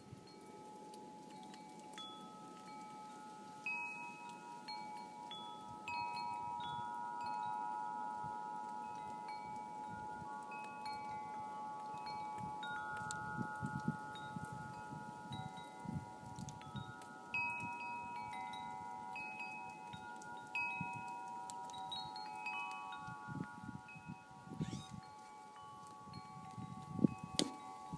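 Wind chimes ringing, their tubes struck at random by the wind so that long overlapping tones hang and blend, with a faint gusty rumble of wind underneath.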